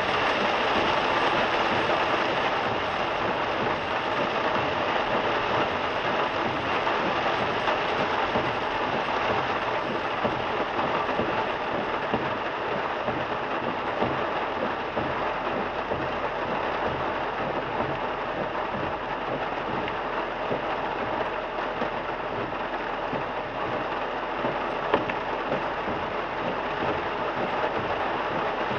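Heavy downpour of rain on a moving car: a steady, dense hiss of rain and wet road noise, with a single sharp tick near the end.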